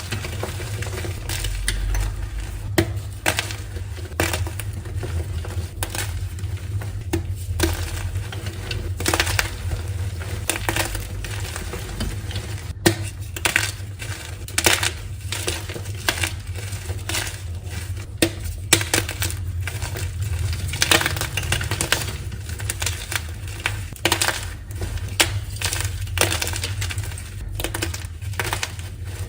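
Crunchy dyed gym chalk being crushed: a dense, irregular run of sharp crunches and crackles, some louder snaps standing out.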